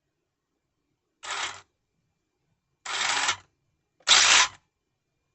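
Brushless motor and gear drivetrain of a Tamiya DT02 RC buggy spun up in short throttle blips: four bursts of under a second each, getting louder and longer, with silence between them.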